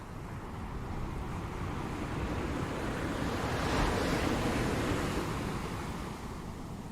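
Pacific Ocean surf: a wave breaks and washes in, the hiss building to its loudest about four seconds in and then fading, over a steady low rumble of wind on the microphone.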